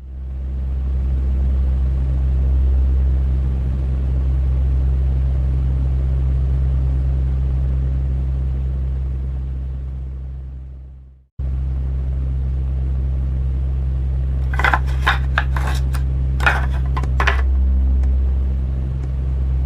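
A steady low droning hum, heavy in the bass, fades away about eleven seconds in, cuts out for a moment, then returns abruptly. A few seconds later comes a quick run of about eight sharp clicks or clinks.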